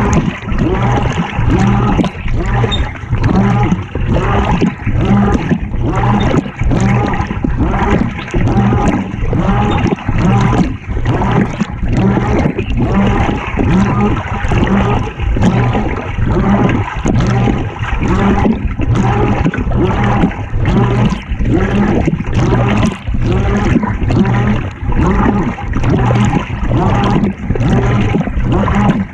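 Water churning and sloshing inside a GE top-loading washing machine tub mid-cycle, heard from inside the tub, over a steady low motor hum. The loudness surges and dips about once a second, like the agitator's back-and-forth strokes.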